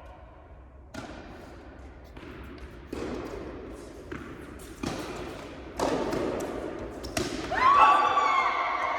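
Tennis balls struck by rackets and bouncing on an indoor court during a rally: about six sharp hits and bounces roughly a second apart, each with a short echo. A voice calls out near the end.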